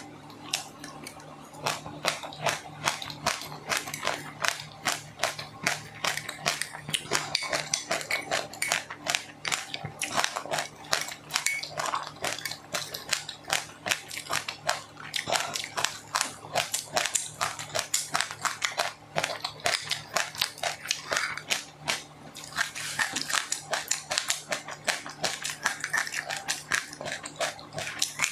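Close-up chewing of crunchy food: a dense run of crisp crunches, several a second, over a steady low hum.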